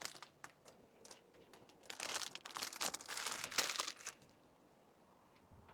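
Packaging crinkling and rustling as items are handled and packed, a few crackles at first, then a denser run of crinkling from about two seconds in that stops about four seconds in.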